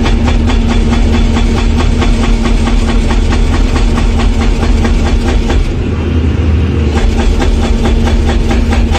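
A heavy engine or machine running steadily with a constant low hum and a fast, even clatter of knocks.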